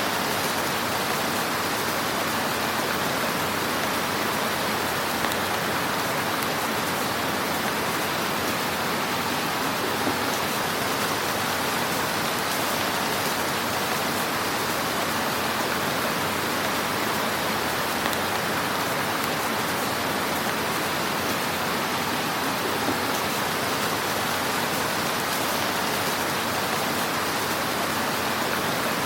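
Wood fire in a fireplace burning with a steady, dense crackling hiss, and a few slightly louder pops now and then.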